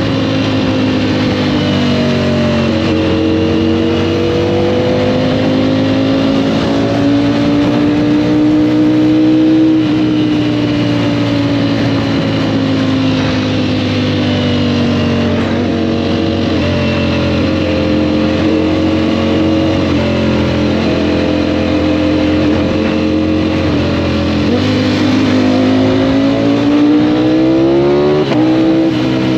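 Sport motorcycle engine running under way, its pitch slowly rising and falling with the throttle. The pitch drops suddenly about two seconds in and again near the end, and just before the end it climbs steeply, as it does under hard acceleration.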